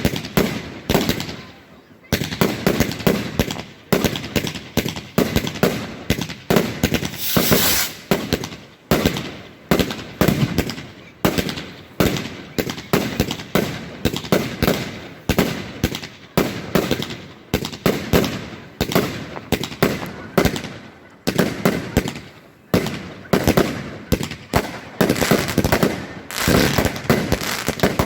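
Celtic Fireworks consumer fireworks going off in a rapid, continuous barrage of sharp bangs, about two or three a second, with crackle between them.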